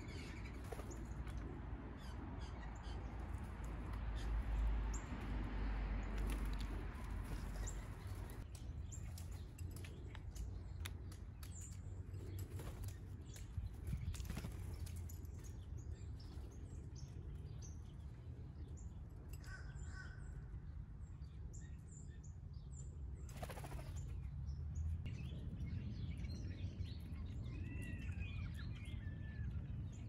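Wild backyard songbirds chirping: scattered short chirps and calls, with a run of curving whistled notes near the end, over a steady low rumble and a broad rushing noise in the first several seconds.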